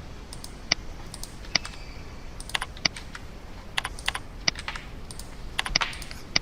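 Computer keyboard and mouse being used: about a dozen sharp, single key clicks at irregular intervals, some in quick pairs.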